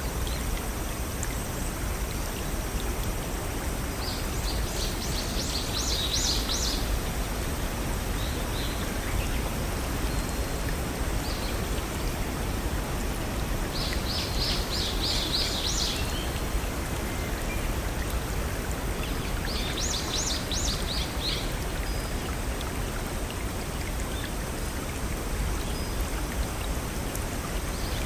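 Steady rush of running water from a small brook or waterfall, with a small bird singing three short, rapid high phrases over it: a few seconds in, around the middle, and about two-thirds through.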